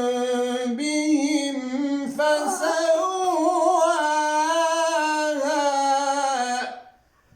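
A male reciter's voice chants a Quranic verse in melodic tajweed style, drawing out the word "bi-dhanbihim" in long, ornamented held notes. The chanting stops shortly before the end.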